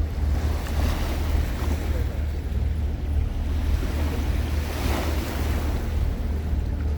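Passenger ferry under way: a steady low engine drone with water rushing along the hull and wind buffeting the microphone. The water noise swells briefly about five seconds in.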